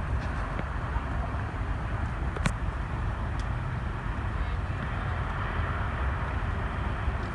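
Steady road traffic noise, cars passing with a low rumble, and one sharp click about two and a half seconds in.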